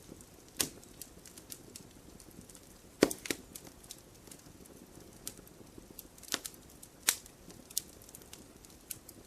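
Wood fire crackling in a fireplace: burning logs give irregular sharp pops and small ticks over a faint low hiss, the loudest a quick double pop about three seconds in.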